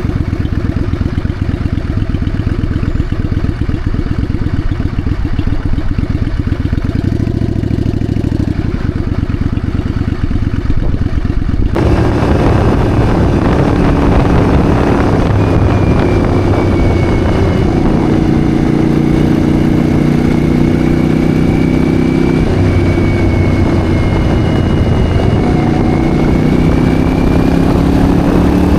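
Yamaha Virago bobber's V-twin engine running at low speed with a low pulsing beat. About twelve seconds in, a loud wind rush suddenly joins it as the bike rides at speed, the engine pitch rising and dropping with throttle and gear changes.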